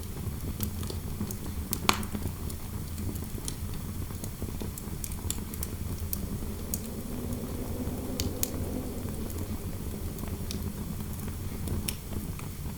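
Fireplace crackling, with scattered sharp snaps and one louder pop about two seconds in, over a steady low rumble of interior wind noise that swells faintly about two thirds of the way through.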